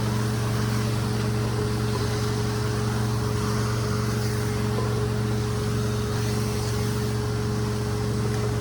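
Rug-cleaning machine running steadily: a constant motor hum with a steady higher tone and an even rush of air or water noise over it.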